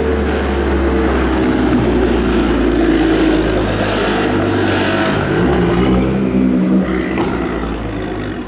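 Straight-piped exhaust of a Nissan GT-R R35's twin-turbo V6 running hard on track. The note holds steady for about five seconds, becomes less steady, and eases off near the end.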